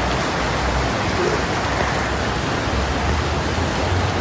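Rain falling on floodwater, a steady loud hiss with a low rumble underneath.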